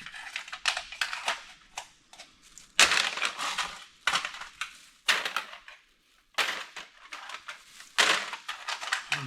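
Empty aluminum drink cans clattering and crinkling as they are handled and bagged, in repeated bursts with sharp metallic clicks.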